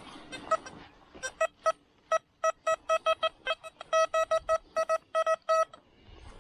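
Metal detector beeping on a target: a run of short electronic beeps, all on one mid-high pitch, coming irregularly at about three to five a second from about a second in until shortly before the end.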